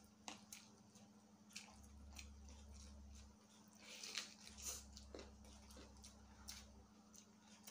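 Faint chewing and biting from people eating by hand, with scattered small clicks of mouth and fingers.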